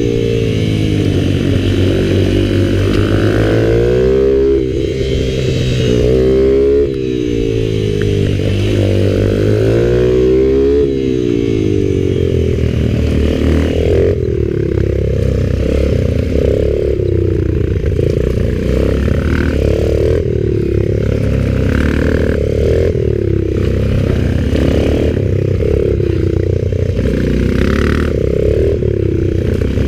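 Minibike engine being ridden hard around a tight track, the revs rising and falling again and again as it accelerates out of corners and backs off into them.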